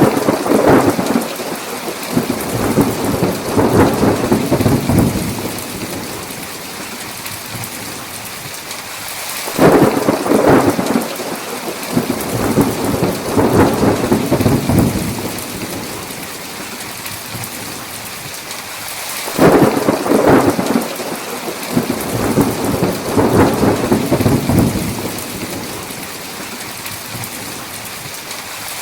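Steady heavy rain with thunder breaking three times, about ten seconds apart. Each clap starts sharply and rolls on for around five seconds before dying back into the rain.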